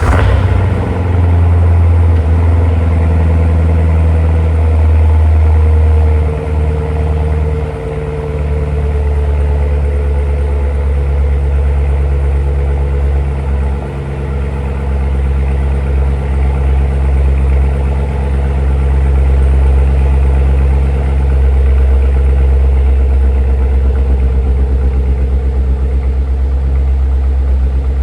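2015 Corvette Stingray's 6.2-litre LT1 V8 catching on a cold start and settling into a steady idle with a strong low rumble, dipping slightly in level a few times.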